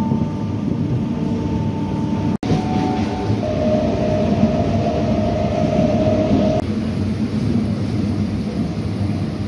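Electric suburban local train running, heard from inside the carriage: a steady rumble of wheels on track with a faint steady whine. The sound drops out for an instant about two and a half seconds in.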